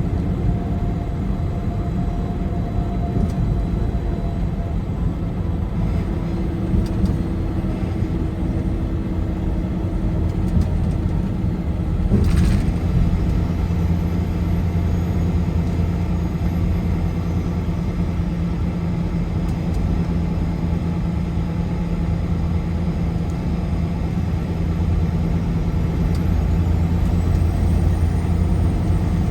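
Car driving at highway speed: a steady low rumble of engine and tyres on the road, with a few constant droning hums. About twelve seconds in there is a short, louder whoosh.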